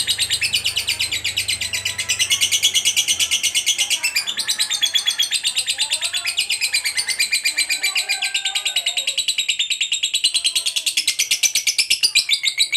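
Lovebird's long ngekek: an unbroken run of rapid, high, chattering notes, many to the second, with a fainter lower warbling underneath partway through.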